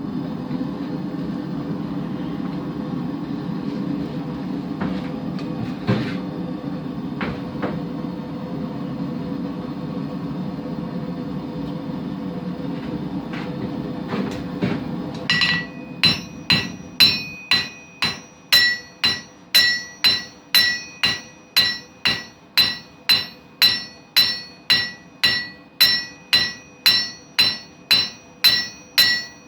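A forge runs with a steady low rush, with a few faint clicks, for about the first half. Then a hammer starts striking the hot knife blank on an anvil about twice a second, each blow ringing, as the blade's bevels are forged.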